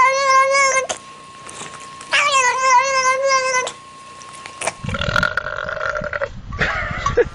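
A cat yowling: two long cries with a wavering, warbling pitch, each lasting a second or more. In the last two and a half seconds comes a different, rougher and lower animal call over a low rumbling noise.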